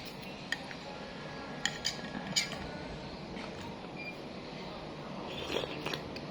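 Metal spoon clinking against a bowl of bakso in a few sharp, separate taps while eating, the loudest about two and a half seconds in.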